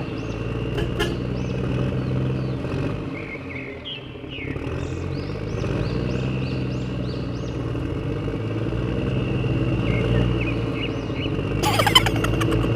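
Small electric motor of an RC toy construction vehicle running steadily with a low hum, and a brief burst of clatter near the end.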